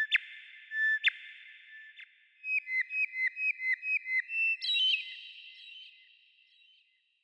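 A songbird singing clear whistled notes: two held notes, then a quick run of about nine short repeated notes, ending in a brief higher trill that fades away.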